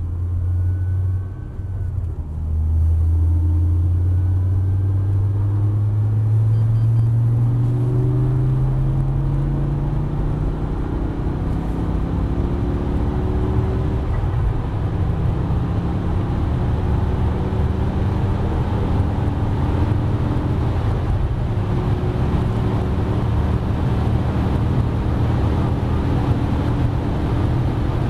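Twin-supercharged 5.0-litre V10 of a G-Power Hurricane BMW M5 Touring (E61) under hard acceleration, heard from inside the cabin. The engine note climbs in pitch through the gears, with shifts about a second in and around eleven seconds in, then climbs more slowly. Road and wind noise grow as the car reaches autobahn speed.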